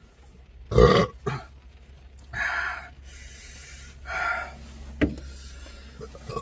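A man burps loudly about a second in, followed by a smaller second sound, then two breathy exhalations a couple of seconds apart and a short click near the end.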